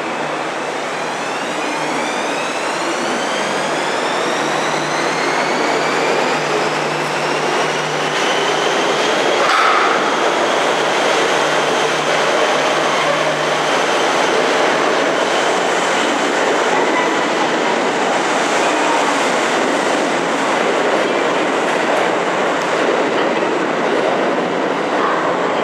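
Kintetsu 2800-series electric train pulling out of an underground station: the traction motor whine climbs in pitch as it gathers speed over the first ten seconds, then holds steady, with wheels clattering over the rails and a single knock about ten seconds in.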